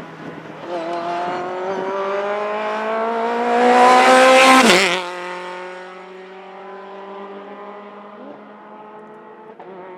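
A race car accelerating toward the track edge and passing by. The engine note climbs steadily as it approaches, peaks loudest about four and a half seconds in, drops sharply in pitch as the car goes past, then fades into the distance.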